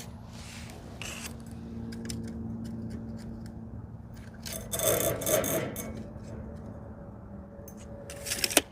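Metal parts scraping and rubbing against each other as they are handled, loudest for about a second and a half around the middle, with a few sharp clicks near the end, over a steady low hum.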